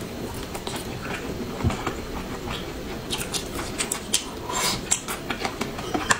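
Close-up eating of braised pork ribs: chewing and biting, with many short irregular clicks and mouth smacks.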